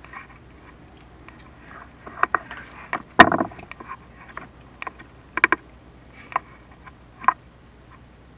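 Scattered knocks and clicks from a chimney inspection camera and its cable bumping against the flue walls as it is fed down the chimney, the loudest knock about three seconds in.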